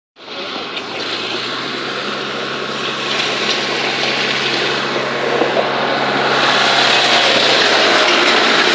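Tractor engine running steadily at a tractor pull, growing louder about six and a half seconds in.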